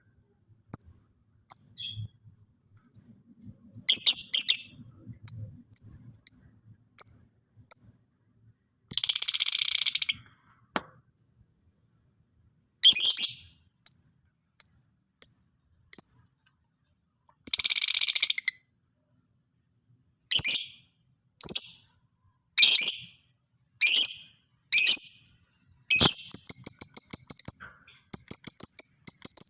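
Lovebird calling: short, sharp high chirps in irregular runs, broken by two longer harsh screeching calls about a third of the way in and just past halfway, then a fast string of chirps near the end.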